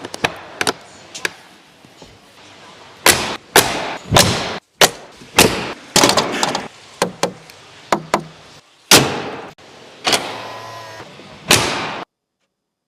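Mercedes-AMG G63 G-Wagon doors being worked open and shut: a series of about a dozen sharp clacks and heavy clunks, each with a short ringing tail, stopping about twelve seconds in.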